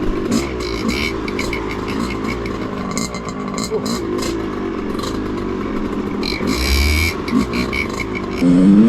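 Two-stroke dirt bike engine revving on and off, its pitch rising and falling as the bike is worked over a fallen tree on a muddy trail, with scattered knocks and clatter. A sharp, loud rev comes near the end.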